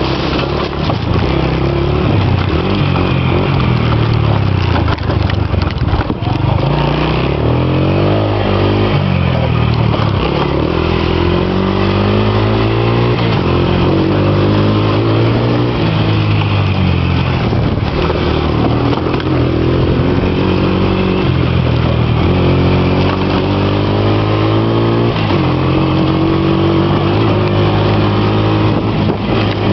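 A vehicle engine running under way, its pitch rising and falling repeatedly as it speeds up and eases off.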